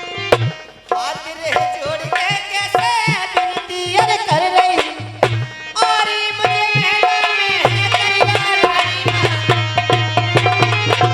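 Instrumental Indian folk music: a hand-drum beat under a melodic instrument that slides between notes. The drumming drops away about a second in and comes back strongly around six seconds.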